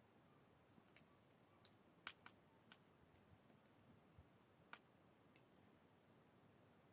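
Wood fire burning quietly, giving off a few faint, irregular pops and crackles, about eight in all, the sharpest about two seconds in and again a little before five seconds; otherwise near silence.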